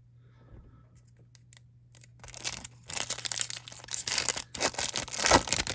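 Foil wrapper of a 2021 Topps Chrome Baseball card pack being torn open and crinkled. A few faint handling clicks come first, then about two seconds in a dense crackling rustle of the wrapper sets in and continues.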